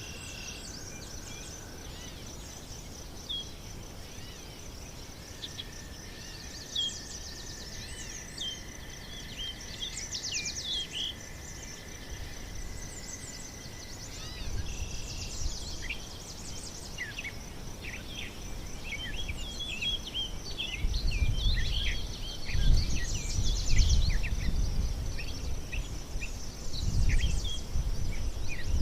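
Many small birds chirping and calling, busiest in the second half, over a steady high pulsing buzz of insects. From about halfway a low gusty rumble builds up and is loudest near the end.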